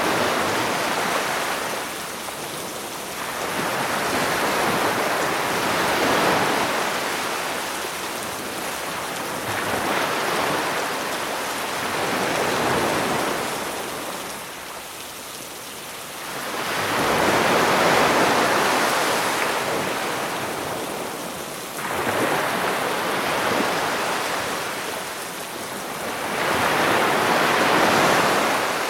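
Sea waves breaking and washing up the shore, swelling and fading every few seconds, over a steady hiss of rain.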